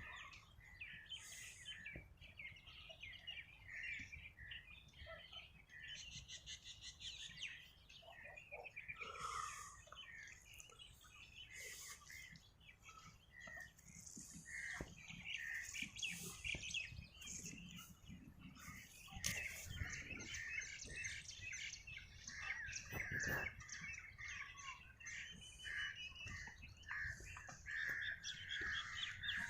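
Songbirds chirping and calling all around, many short overlapping chirps and trills, fairly quiet.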